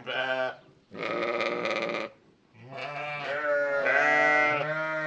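Sheep bleating: three calls in a row, a short one, then a buzzing, quavering one of about a second, then a long wavering bleat of nearly three seconds, the loudest.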